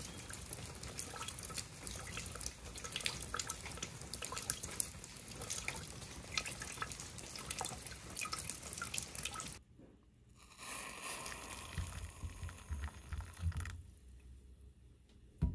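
Rain falling on wet pavement, a steady wash with many separate drops ticking close by. About ten seconds in it cuts off to a much quieter stretch.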